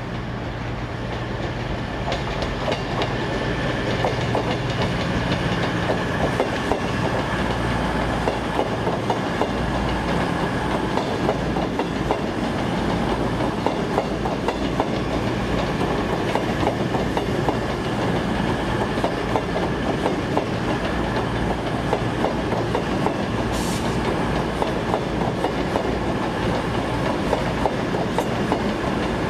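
A train running past on the track, its wheels clattering rapidly and continuously over rail joints and points. A low engine hum underlies the first several seconds, then fades into the clatter.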